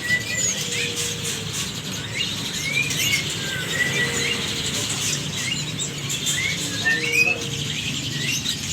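Young jalak suren (Asian pied starlings) chirping over and over, short rising chirps following one another with a steady low hum beneath.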